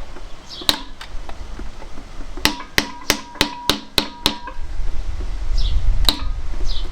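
Hammer blows on steel tooling against the crankshaft's hollow bolt and retaining washer of a Fiat 500 engine, each strike ringing metallically. A single blow comes first, then a quick run of about eight strikes at roughly three a second, then one more near the end.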